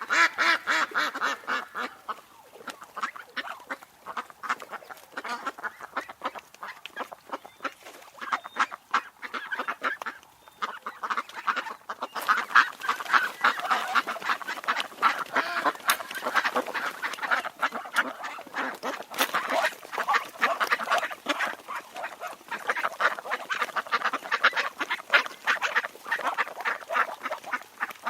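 A flock of ducks quacking and calling over one another in a rapid, continuous chatter.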